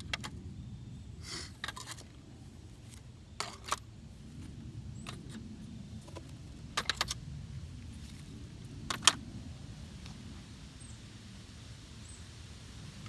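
Light metallic clicks and clinks scattered every second or two, a few in quick groups of three, over a low steady rumble.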